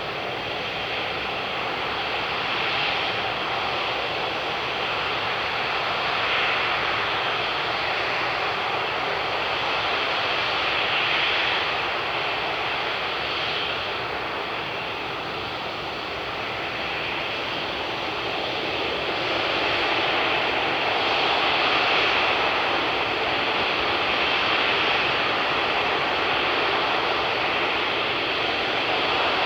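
Jet engines of an Emirates Airbus A380 running, a steady rushing sound that swells and eases a little.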